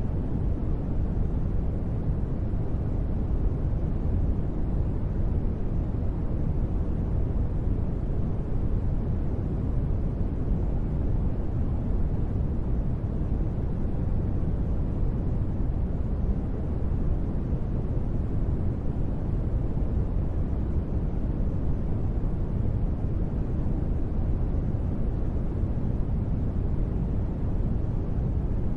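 Steady ambient noise: a deep, even rumble with most of its weight in the bass and little hiss on top. It does not change.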